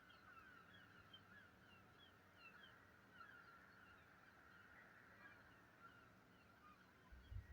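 Faint chorus of many short, repeated animal calls overlapping one another, with a brief low thump near the end.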